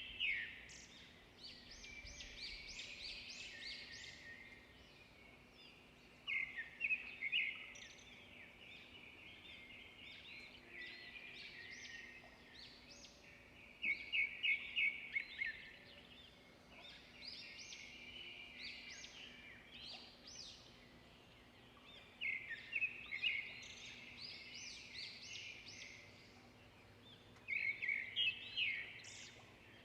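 Songbirds singing, with steady chirping throughout and a louder phrase of rapid notes returning about every seven to eight seconds, four times.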